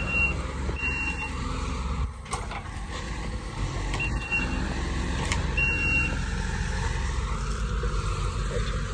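Diesel engine of heavy land-clearing equipment running steadily, with a reverse alarm giving four short high beeps at irregular gaps as the machine backs up. A couple of sharp clacks about two seconds in and again about five seconds in.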